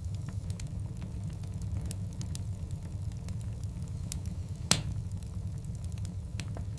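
Wood fire of large burning logs crackling, with irregular small snaps over a steady low rumble. One much louder, sharp pop comes about two-thirds of the way through.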